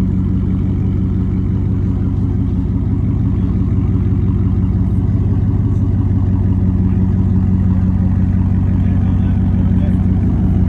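Ford pickup truck's engine running steadily at low revs, growing a little louder toward the end.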